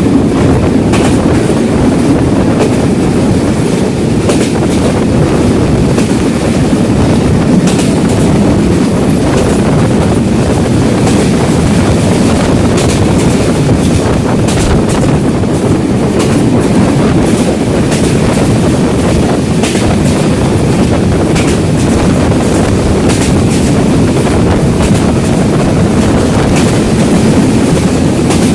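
Train running at speed on Bangladesh Railway track: a steady, loud rumble of wheels on rail, broken by repeated sharp clicks of the wheels over rail joints, with wind buffeting the microphone.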